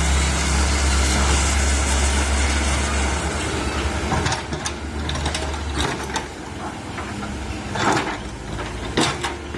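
Komatsu PC130 excavator's diesel engine running hard for about the first three seconds, then easing off. In the second half come several sharp knocks and clanks, with a longer rough crunch near the end.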